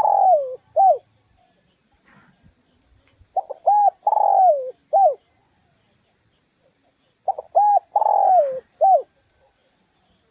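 Spotted dove cooing its song: three phrases about four seconds apart, each a few short coos, a long falling coo, then one short closing coo.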